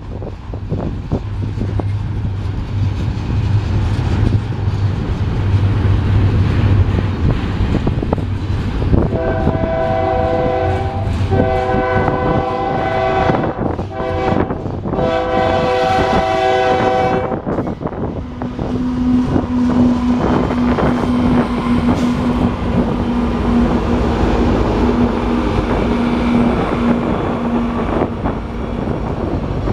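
Double-stack intermodal freight train rolling past, its wheels clattering over the rails. About nine seconds in, a multi-chime locomotive air horn sounds in a series of blasts lasting about eight seconds. After that a steady low drone runs under the rail noise as the locomotives go by.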